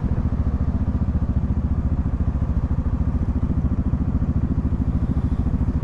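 Yamaha XMAX 300 scooter's single-cylinder engine running steadily while riding at cruising speed, with a fast, even pulsing.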